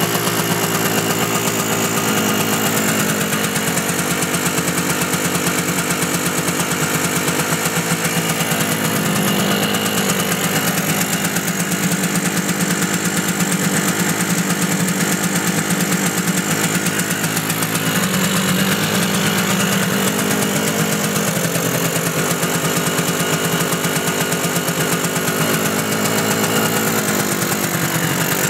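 1976 Harley-Davidson SS125's two-stroke single-cylinder engine running steadily at idle.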